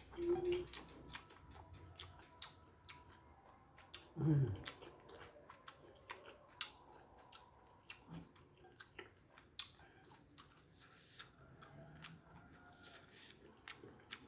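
Close-up chewing with many sharp mouth clicks and smacks as a man eats soft noodles and rice by hand, with a short hum near the start and another about four seconds in.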